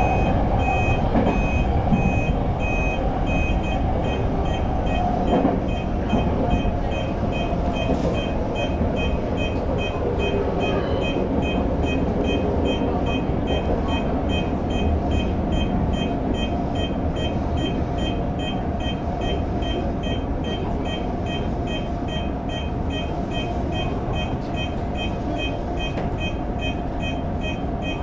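Toyo Rapid Railway 2000 series electric train running, heard from the driver's cab: a steady rumble of wheels on rail and motors. Over it, a high electronic beep repeats evenly, about twice a second.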